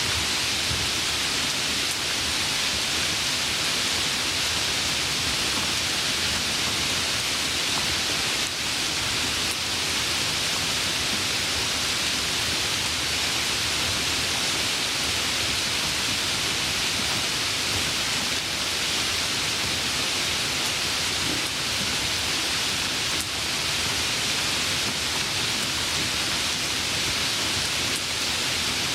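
Steady, heavy rain hiss, an even wash of falling rain without distinct drops or thunder.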